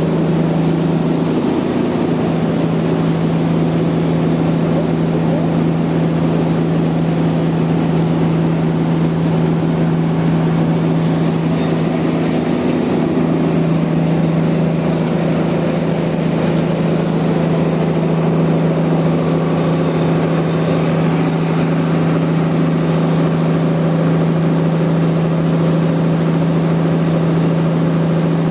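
Sawmill machinery running steadily, a constant hum that holds one pitch throughout.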